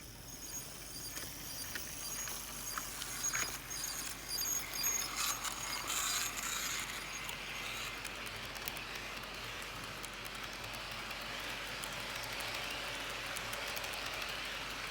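HO scale model train starting up and running on its track. In the first half there are scattered clicks and a thin high whine. These settle into a steady whirring rush of the motors and wheels on the rails.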